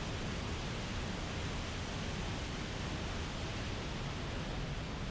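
Steady rushing noise of a glacier-fed waterfall, even and unbroken.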